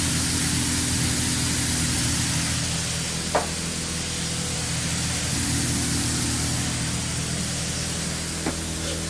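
Food-truck kitchen noise: a steady hiss over a low machine hum, with two short clicks, one about a third of the way in and one near the end.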